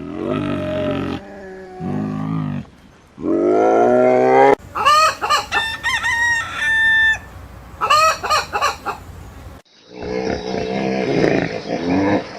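Calls of domestic fowl, crowing and clucking, in several short clips joined one after another, with abrupt cuts between them. High, gliding calls fill the middle part.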